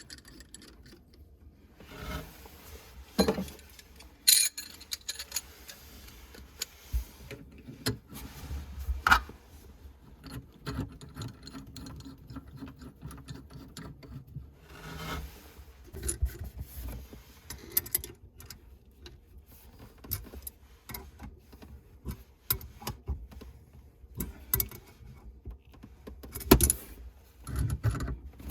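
Hand tools and metal faucet fittings clinking, knocking and scraping in irregular, scattered strokes during washbasin faucet replacement work, with a few short rustling hisses.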